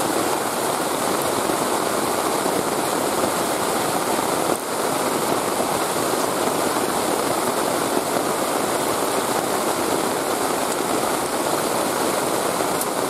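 Steady rushing noise of heavy rain and fast-flowing river water.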